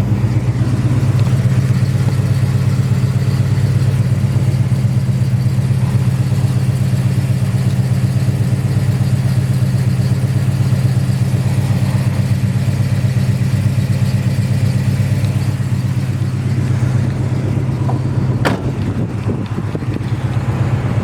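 Oldsmobile Rocket 350 V8 idling steadily through its exhaust, with an even low rumble that does not rise or fall. A single sharp click sounds near the end.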